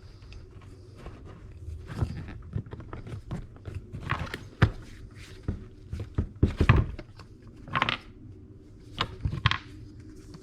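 Hands working a scooter's new rubber inner tube and tire into the split wheel rim and pushing the valve stem through its hole: irregular rubbing, scraping and knocks, loudest a little past the middle.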